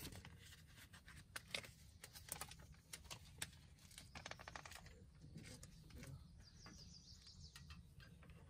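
Faint bird song: a quick run of high, evenly spaced chirps about five seconds in, with scattered light clicks and taps throughout.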